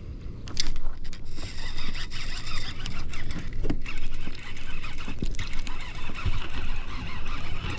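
Water splashing and churning as a hooked largemouth bass thrashes at the surface, starting with a sudden splash about half a second in.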